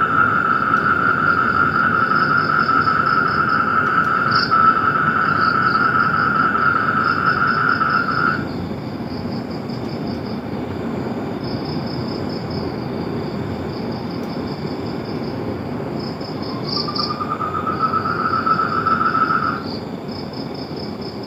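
Chorus of trilling insects: a high, rapidly pulsing trill repeats throughout, over a lower continuous trill that stops about eight seconds in and comes back, rising slightly, for a few seconds near the end.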